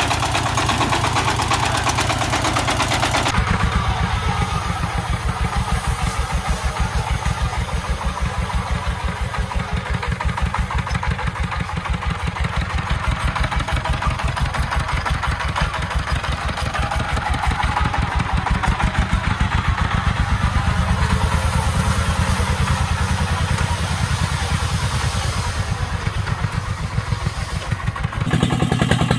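The diesel engine of a two-wheel walking tractor running with a steady, rapid chugging. The sound changes abruptly about three seconds in and again near the end.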